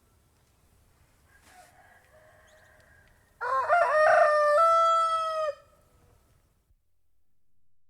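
A domestic rooster crowing once, loudly, about three and a half seconds in, with a rough, wavering start and a long held note at the end. A fainter call comes before it.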